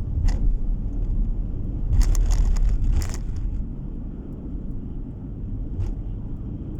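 Car road noise heard from inside the moving car: a steady low rumble of tyres and engine. It is broken by a cluster of short knocks about two to three seconds in, and by single clicks near the start and near the end.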